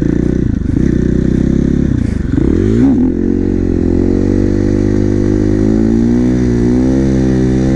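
A 450 supermoto's single-cylinder engine running under way. About two to three seconds in its pitch dips and climbs again, then it holds a steady, slightly wavering pitch.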